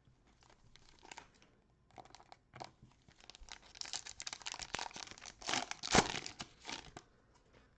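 Cellophane wrapper of a basketball trading-card cello pack being torn open and crinkled: a run of crackling rustles that builds up and is loudest about six seconds in.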